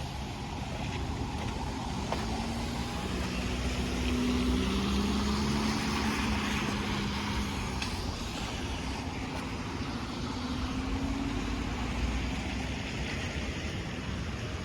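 A car passing on a wet street: its engine hum rises to a peak about four seconds in and fades, and tyre hiss comes off the wet road. A second, fainter vehicle passes later. Wind rumble sounds on the microphone throughout.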